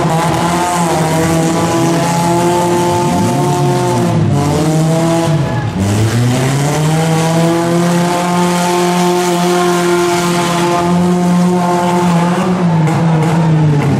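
Four-cylinder demolition derby car engines revving hard and held at high revs under load as the cars shove against each other. The pitch drops sharply about halfway through, then climbs back up and holds.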